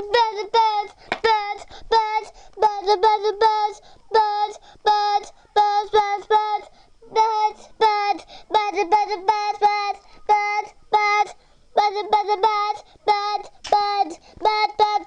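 A child singing a wordless tune of short repeated notes, about two a second, in phrases separated by brief pauses.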